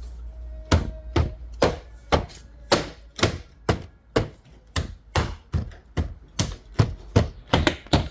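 A repetitive beat playing through the car's audio system: a sharp bass thump about twice a second, each with a short, falling, high-pitched sweep on top.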